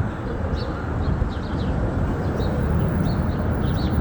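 Small birds chirping repeatedly in short, quick calls over a steady low outdoor rumble.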